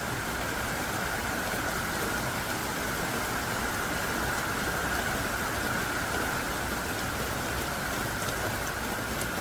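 Heavy rain pouring down steadily, a dense even hiss with scattered patter of drops.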